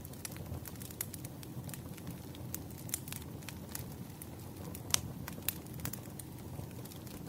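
Campfire crackling: a steady low rumble of burning wood with scattered sharp pops and snaps, the loudest pop about five seconds in.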